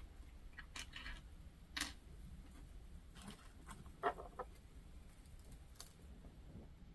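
Faint, scattered clicks and small clinks of jewelry being handled, rings and chain tapping together, with a quick run of clinks about four seconds in.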